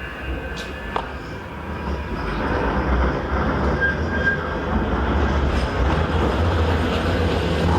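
Manchester Metrolink tram running along street track, a low rumble that grows louder about two to three seconds in and then holds as it passes close by.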